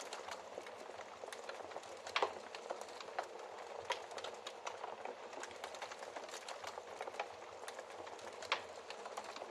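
Wood fire burning in a fireplace: a steady soft hiss of flames with constant small crackles, and two louder pops about two seconds in and near the end.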